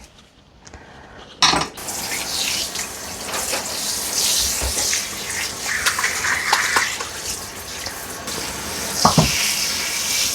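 Water from a bath tap or shower turned on suddenly about a second and a half in, then running steadily, rinsing the conditioner out of a dog's coat.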